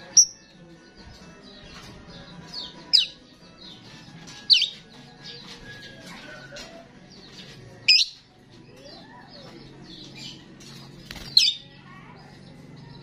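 A starling singing actively: continuous varied chattering and chirping, punctuated by five loud, sharp calls that each fall quickly in pitch, spaced a few seconds apart.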